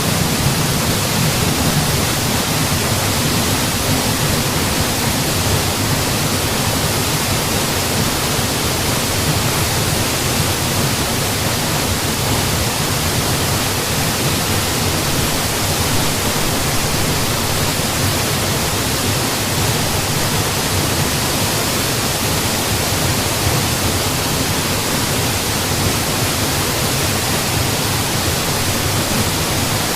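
Mountain waterfall: a steady, unbroken rush of falling water, a deep rumble under a bright hiss.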